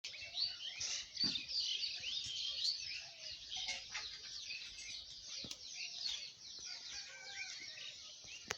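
Many small birds chirping and twittering at once in a dense morning chorus, with one brief lower call about a second in and a sharp click at the very end.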